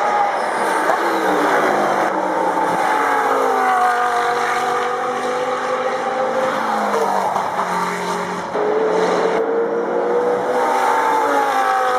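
Audi R8 LMS Ultra race car's V10 engine at racing speed, loud, its pitch falling and rising several times as it runs through the gears. About eight and a half seconds in, the sound jumps suddenly to a new pitch and level.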